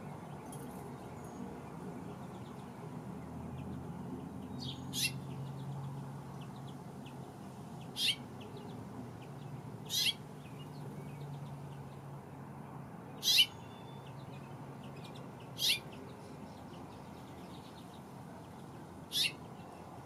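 A small songbird giving six short, sharp, high-pitched calls spaced a few seconds apart, the loudest about two-thirds of the way through, over a faint steady low rumble.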